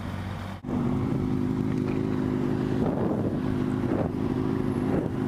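Sport motorcycle's inline-four engine running at a steady note, with wind on the microphone. A brief dropout under a second in gives way to a louder, higher, steady engine note.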